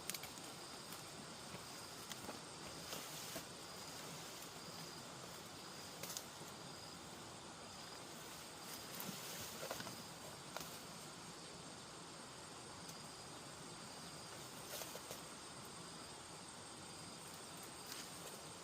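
Faint outdoor ambience of insects chirping in short, repeated high notes, with a few scattered light clicks or knocks.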